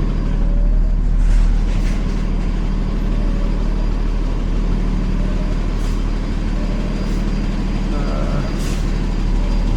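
Semi truck's diesel engine running steadily at low speed as the truck creeps into position.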